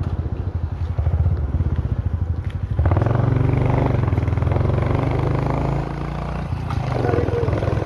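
A vehicle engine running on the move. It gets louder about three seconds in and eases off briefly a little before the six-second mark.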